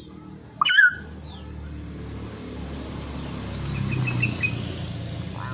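Common hill myna giving one loud, shrill call with a quick pitch glide about a second in, then a few faint short chirps. A steady low rumble, like a motor vehicle, runs underneath and swells a little past the middle.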